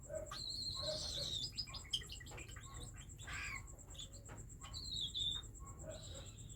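Baby cockatiels calling: short chirps and clicks with two longer, wavering high calls, one about a second in and one near five seconds.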